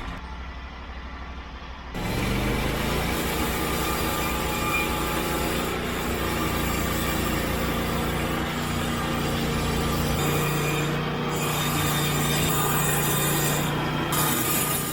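Norwood HD36 portable band sawmill running, its band blade cutting through log rounds to slice off wood cookies. The engine is quieter for the first two seconds, then runs loud and steady.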